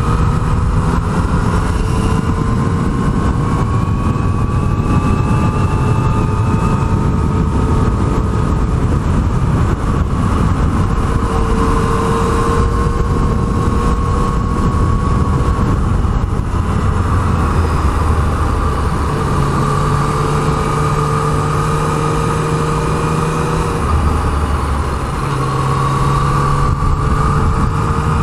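Yamaha MT-09 three-cylinder motorcycle engine under way on a winding road, its pitch rising slowly and dropping back several times with throttle and gear changes, over heavy low wind rush.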